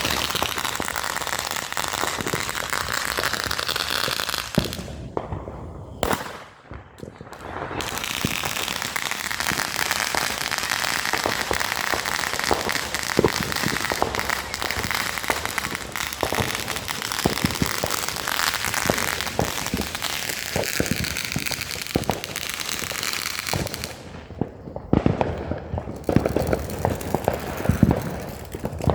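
Consumer fireworks going off with a steady hiss and dense crackling. The hiss drops out briefly about six seconds in and again near the end, where lower, heavier pops take over.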